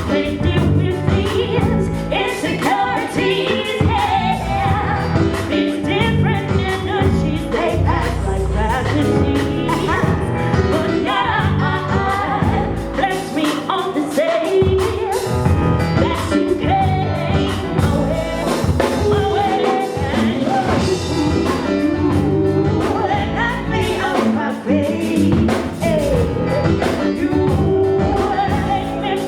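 Live band music with a singer's voice over the instruments.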